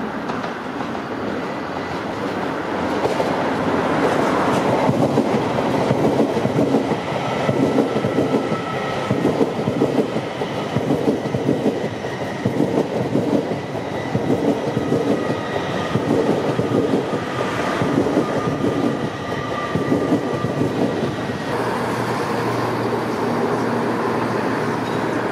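LNER Azuma (Hitachi) express train passing over pointwork: a rolling rumble with a rhythmic clickety-clack of wheels over rail joints and crossings, and faint high tones coming and going. About four seconds before the end the sound changes to a steadier rumble as a CrossCountry diesel multiple unit approaches.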